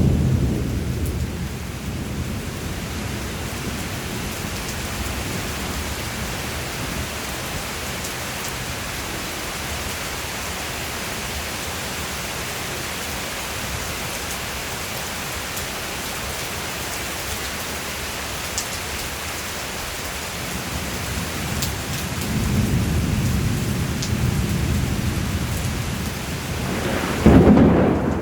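Steady rain falling during a thunderstorm, with thunder: a rumble dying away in the first couple of seconds, another low rumble building about 22 seconds in, and a sharper, louder clap of thunder near the end.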